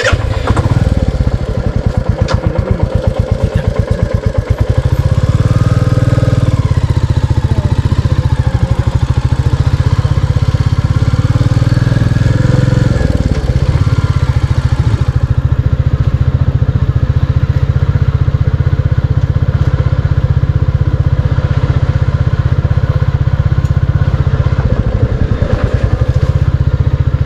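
Royal Enfield Classic 350's single-cylinder engine running with a steady, rapid thump from the exhaust. The revs rise briefly about five seconds in and again around twelve seconds.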